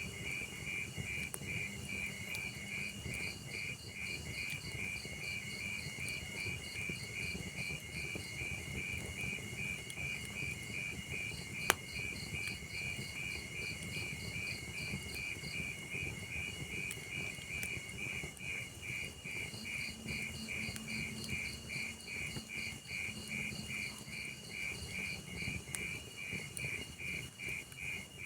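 Crickets chirping in a steady, evenly repeating rhythm over the low crackle of a burning log fire, with one sharp pop from the fire near the middle.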